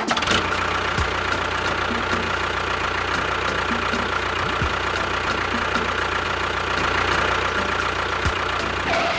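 A motor running steadily with a low hum and a faint regular ticking. It starts and stops abruptly.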